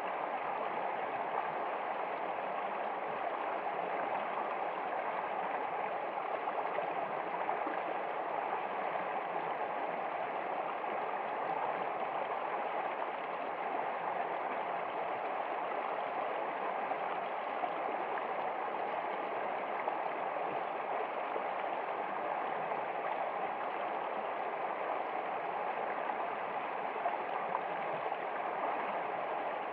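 Water flowing steadily in a stream, an even, unbroken rush with light gurgling.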